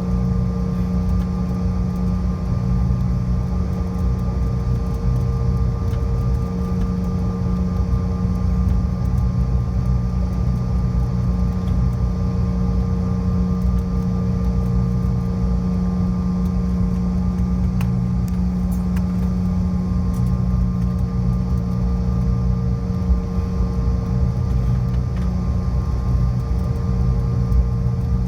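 Steady cabin drone of a Bombardier CRJ700 on the ground with its rear-mounted turbofan engines at idle: a constant low hum with a few steady tones and a rumble underneath.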